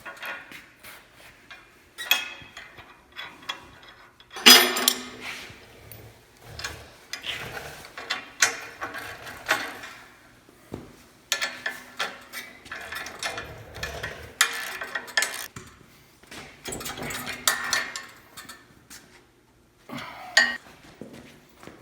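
Steel parts and hand tools being handled while bolting a bracket onto a log splitter: irregular metal clinks, knocks and scrapes, the loudest a knock about four and a half seconds in.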